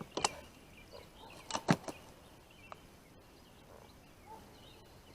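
A few short sharp knocks and clicks in the first two seconds, the loudest pair about a second and a half in, then faint high chirps like small birds.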